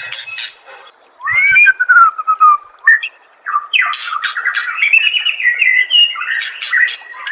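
White-rumped shama (murai batu) singing: a few sharp clicks, then about a second in a long slurred whistle falling in pitch, followed by rapid clicking notes and varied whistled phrases.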